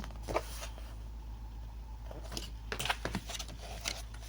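Faint rustles and soft taps of a paper picture book being handled, its page turning, over a steady low hum.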